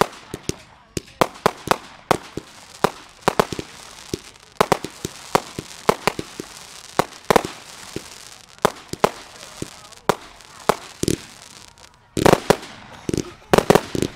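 Fireworks display: a run of sharp bangs from bursting fireworks, irregularly spaced at a few per second, with a dense rapid volley about twelve seconds in.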